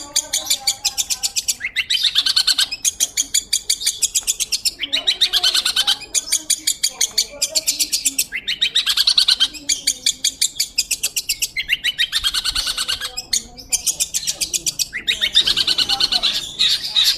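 Long-tailed shrike (pentet) singing: rapid chattering trains of sharp, high notes, about ten a second, in repeated bouts of one to three seconds with brief pauses between them.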